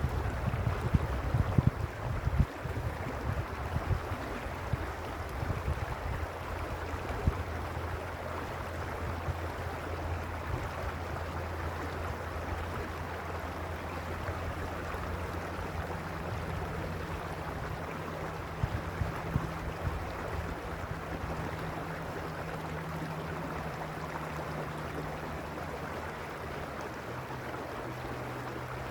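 Stream water flowing with a steady rush. Wind buffets the microphone with a gusty low rumble during the first few seconds.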